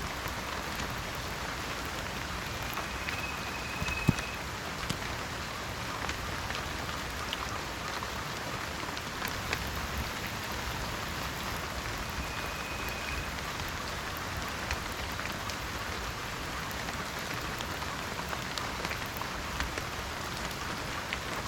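Steady rain falling on a surface, with many small drop ticks and a sharper knock about four seconds in. A faint high tone briefly rises above the rain twice.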